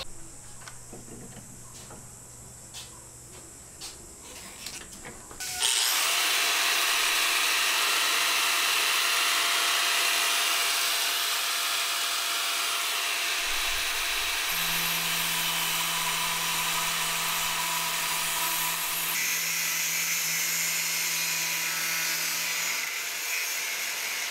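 A few light clicks and taps, then about five and a half seconds in a power tool starts and runs steadily with a loud hiss.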